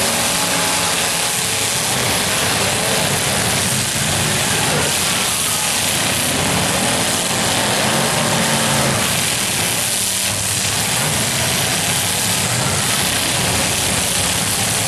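Loud, steady engine noise from several demolition derby cars running in the arena at once.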